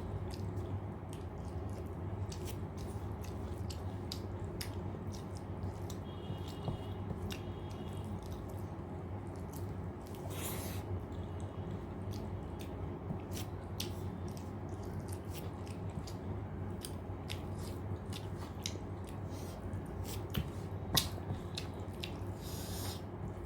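Close-up eating sounds of rice and dal: wet chewing with many small mouth clicks and smacks, over a steady low hum.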